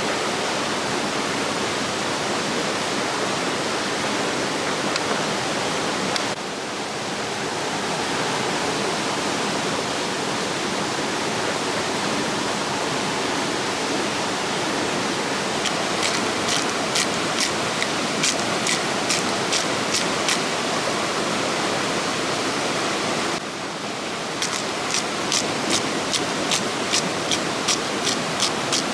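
Steady rushing of a waterfall. Twice, in the second half, a run of sharp taps comes through at about three a second.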